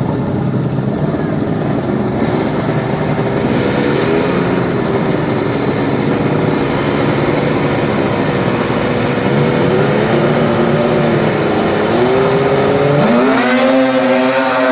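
Racing lawn mower engines running hard, their pitch rising and falling several times as they rev, then climbing steeply near the end.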